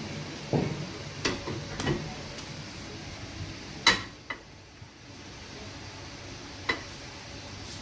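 Scattered metallic clinks and knocks from tools and parts being handled during brake work, about six in all, the loudest a ringing clink about four seconds in.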